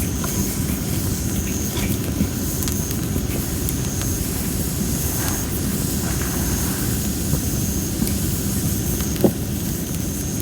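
Campfire of well-dried masaki (Japanese spindle tree) wood burning with a steady low rush of flames and scattered crackles, one louder pop about nine seconds in. A faint short high chirp repeats about once a second over it.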